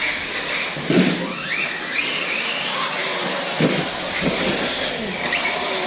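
Electric RC buggies' brushless motors whining, the pitch gliding up again and again as they accelerate, with a few dull thumps of the cars landing or hitting the track.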